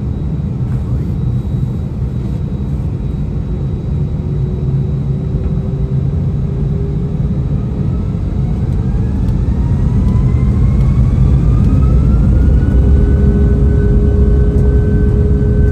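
Airbus A319's IAE V2500 jet engines spooling up, heard from inside the cabin: their whine climbs steadily for a few seconds past the halfway point, then holds at a higher level over a low rumble as the aircraft goes to takeoff thrust.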